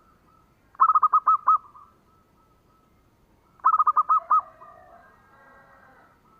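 Zebra dove (perkutut) cooing: two quick runs of five or six short, clear notes, about three seconds apart. A fainter jumble of calls follows the second run.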